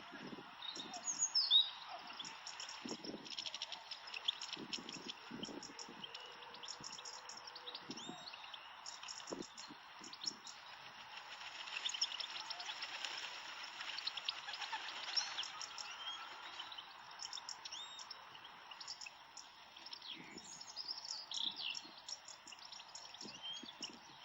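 European goldfinches singing: a run of quick, high twittering chirps and trills that goes on throughout, over a steady background hiss, with scattered low thumps.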